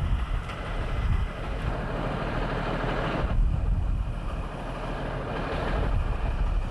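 Wind buffeting an outdoor camcorder microphone as a low, fluttering rumble, with a rushing hiss that cuts off suddenly about three seconds in and swells again near the end.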